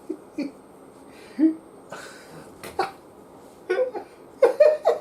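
A man's brief muttering and grunting sounds: several short vocal bursts, clustered near the end.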